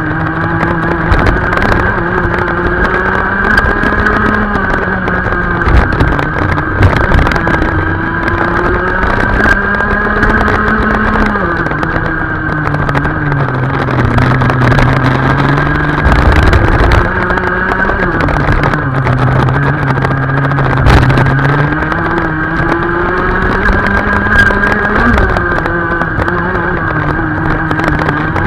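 Go-kart engine running at racing speed, its pitch climbing steadily for several seconds and then dropping sharply, over and over, as the kart accelerates and brakes around the track.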